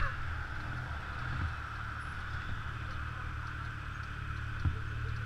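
Scooter running on the road, a steady low rumble with a hissing band above it, and a single knock near the end.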